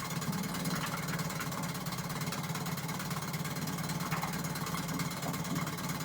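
1956 Johnson 5.5 hp two-cylinder two-stroke outboard motor running steadily in a test tank, freshly tuned up and running smoothly.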